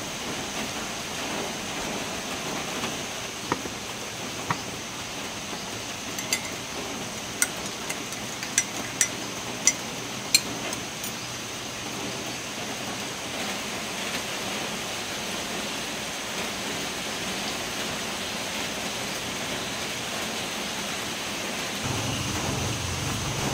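Steady rain falling. From a few seconds in until about the middle, a string of short sharp clinks cuts through it, about eight in all.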